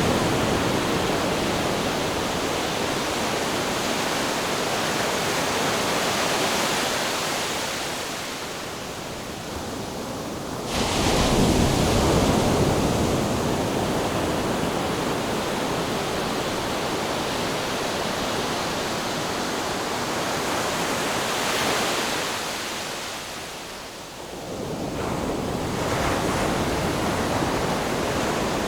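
Ocean waves washing onto the shore in a continuous rush that swells and ebbs. A sudden louder surge comes about eleven seconds in, and there is a lull a little before the end.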